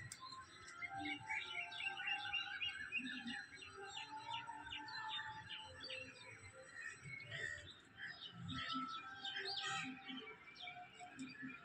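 Many small birds chirping at once, a dense chorus of short, overlapping calls.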